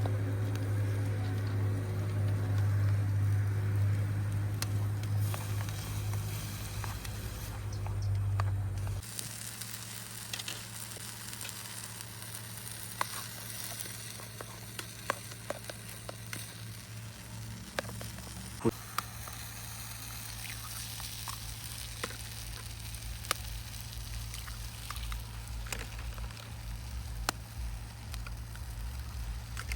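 Food sizzling in a pan over a campfire, an even hiss scattered with sharp pops and crackles. A steady low rumble at first cuts off suddenly about nine seconds in.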